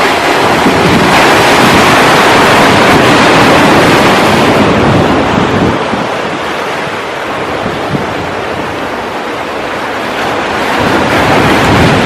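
Sea surf breaking on the shore: a wave crashes and washes loudly in the first few seconds, eases off, and another builds near the end. Wind buffets the microphone throughout, adding a low rumble.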